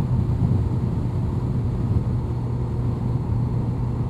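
2002 Honda CBR1100XX Blackbird's inline-four engine running at a steady cruise, its pitch holding level.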